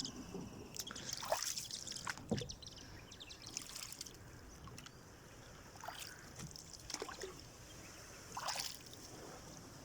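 Faint water trickles and small splashes from a small boat being pushed quietly through shallow water, with scattered brief drips.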